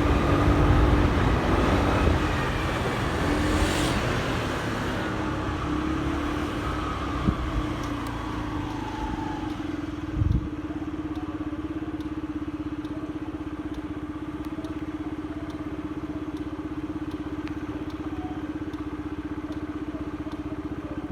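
Motorcycle engine heard from the bike itself: running with road and traffic noise, then slowing, and after a brief low thump about ten seconds in, settling into a steady idle.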